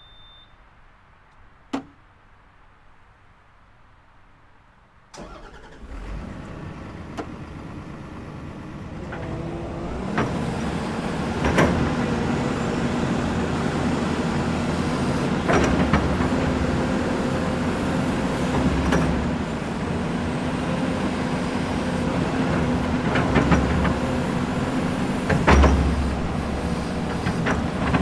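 Komatsu excavator's diesel engine starting about five seconds in, after a short high beep and a single click, building up over a few seconds, then running steadily with a low even hum. Sharp knocks ring out every few seconds over the running engine.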